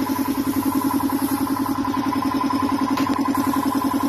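Motorcycle engine idling steadily, with a fast, even pulsing of about a dozen beats a second.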